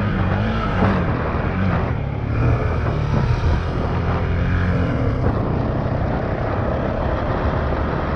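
Honda CRF450X dirt bike's single-cylinder four-stroke engine running while riding, its revs rising and falling with the throttle.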